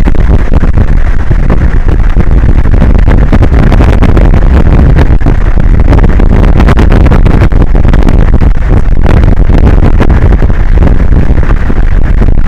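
Wind buffeting the outdoor camera microphone: a loud, continuous low rumble with rapid irregular flutter, near the point of distortion.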